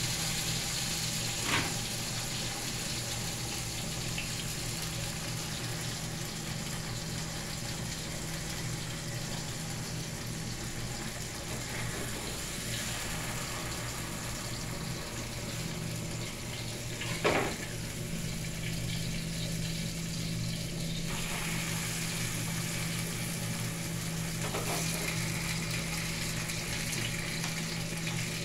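Tortillas frying in hot oil and red chile sauce in a skillet, a steady sizzle over a low hum. A metal fork knocks against the pan twice, once near the start and more loudly about halfway through.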